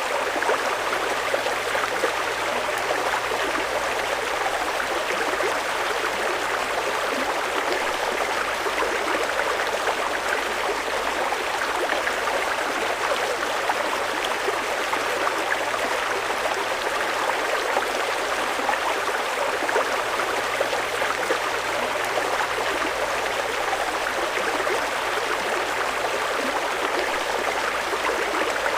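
Fast-flowing river rushing steadily over rocks, an even continuous water noise.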